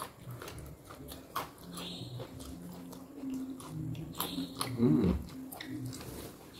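Close-miked eating sounds: biting and chewing food, with many short wet clicks, and a louder mouth sound about five seconds in.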